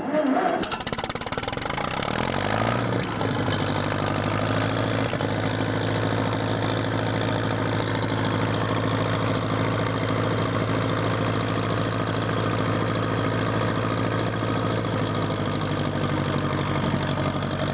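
Ferguson FE35's four-cylinder petrol/TVO engine starting on the key with the choke out. It catches at once, rises in pitch over the first two or three seconds and settles into a steady idle.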